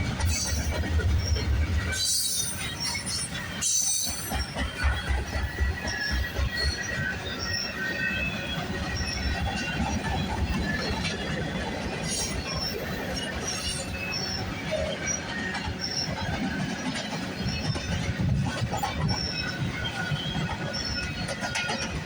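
CN freight train's cars rolling past: steel wheels on the rails make a steady rumble, with short high-pitched wheel squeaks repeating a little more than once a second.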